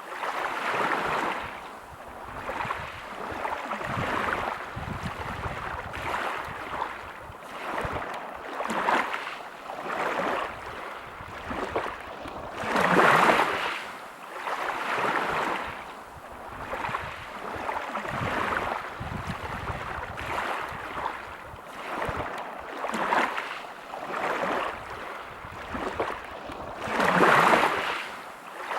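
Waves breaking and washing over a pebble beach, the wash swelling and falling every second or two, with bigger breakers about halfway through and near the end.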